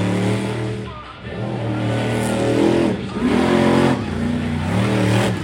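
Monster truck engine revving hard in repeated surges, its pitch climbing and dropping back about four times as the throttle is worked.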